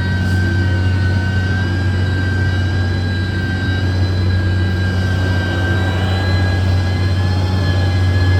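Heavy diesel construction machine engine running steadily under load, a deep low hum with a steady high whine over it.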